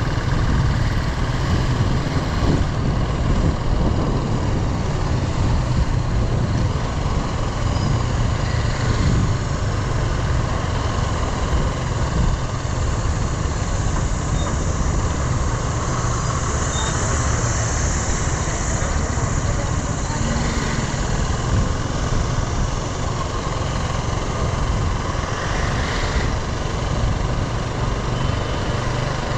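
Motorcycle running on the road, with a steady, unbroken engine and road noise.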